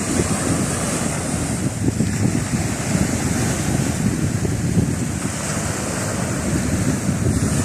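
Sea waves washing continuously, with wind buffeting the microphone in a steady low rumble.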